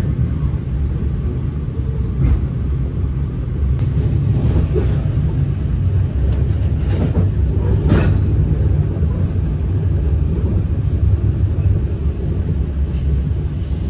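Moving KTM Express Rakyat passenger train heard from inside the coach: a steady low rumble with a few sharp knocks.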